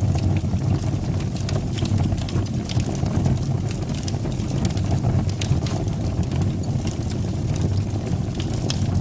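Wood fire burning in a fireplace: a steady low roar of flames with scattered sharp crackles and pops from the burning wood.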